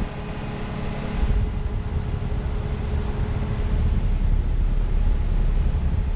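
Carrier Performance central air conditioner's outdoor unit running just after startup: a steady compressor hum with the condenser fan, and a heavy low rumble that builds about a second in.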